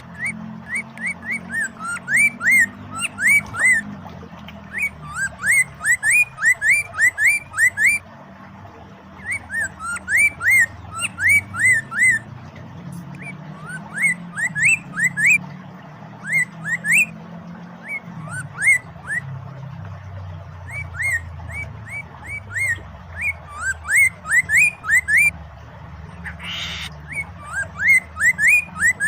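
Poksay mandarin, a laughingthrush, singing: runs of short, quickly repeated whistled notes in phrases of a few seconds each, over a low steady rush of flowing water.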